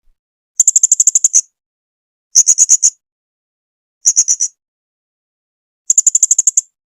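Blue-crowned hanging parrot (serindit) calling: four bursts of rapid, high-pitched chips, each burst under a second long, with short pauses between them.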